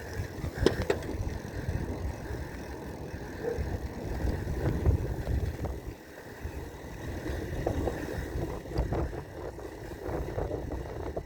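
Wind buffeting the microphone during a bicycle ride, with road rumble and the bike rattling. There are sharp clicks about a second in and a run of short rattles near the end.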